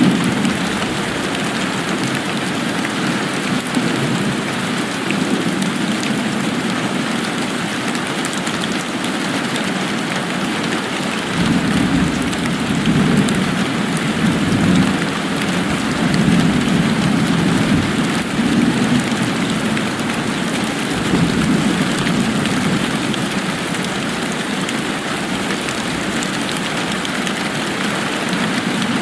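Steady rain falling, an even hiss. Through the middle a low rumble swells and fades several times.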